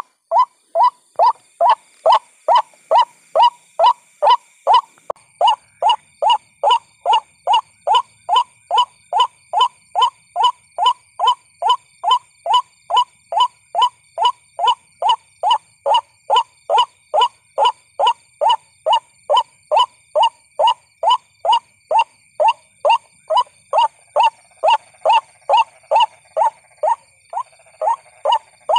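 White-breasted waterhen calls used as a trapping lure: one loud, harsh note repeated steadily about twice a second, over and over. Near the end a second, lower-pitched call series briefly overlaps the first. A faint steady high-pitched tone runs behind.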